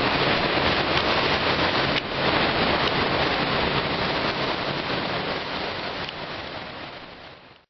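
Fast-flowing floodwater rushing in a steady, even wash of noise that fades out near the end.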